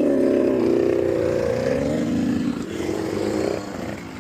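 Motocross dirt bike engine running hard close by. It starts suddenly, its pitch drops about two seconds in, then climbs again before easing off near the end.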